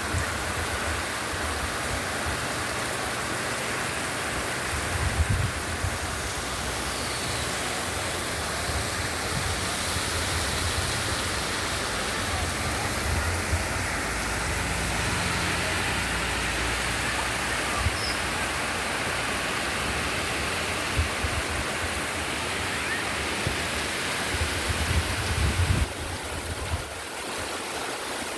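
Heavy rain falling in a steady, even hiss, with irregular low rumbles now and then, strongest about five seconds in and near the end.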